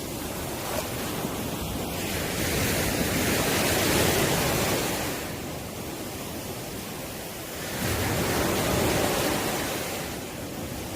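Ocean waves breaking on the shore, a steady wash of surf that swells twice as waves come in and eases between them, with some wind on the microphone.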